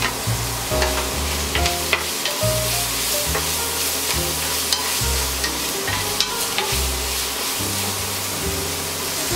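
Bacon, shrimp, onion and button mushrooms sizzling in a nonstick frying pan as they are stirred, with a utensil clicking against the pan now and then. Background music with a low bass line plays underneath.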